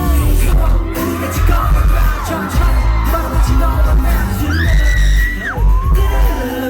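Live K-pop concert music heard loud through the hall: a heavy bass beat under sung vocals, with one high held note about five seconds in.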